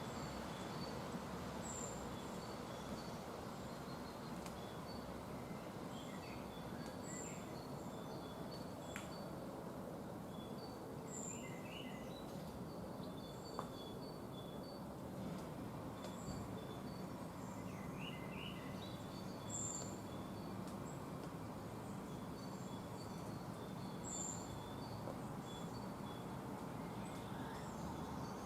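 Outdoor ambience with several birds calling: short, high chirps repeating every second or two over a steady background hiss.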